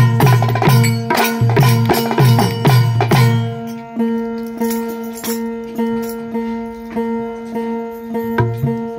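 Ektari (single-string folk lute) plucked in a steady rhythmic drone, about two to three strokes a second, with heavy drum beats along with it that stop about three and a half seconds in, leaving the ektari on its own.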